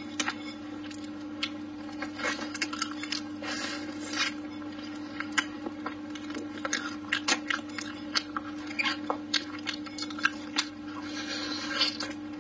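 Close-miked eating of braised pork trotter: wet chewing, biting and lip smacks in irregular short clicks, over a steady low hum.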